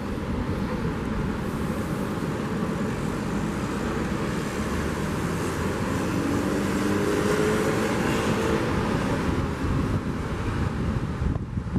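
Ocean surf as a steady wash, with a car passing on a beachfront road; its engine note swells and peaks in the second half before fading.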